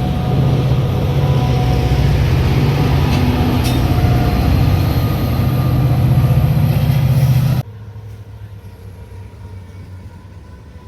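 Metra commuter train running, a loud steady rumble with a few faint clicks, which cuts off suddenly about seven and a half seconds in, leaving a much quieter background.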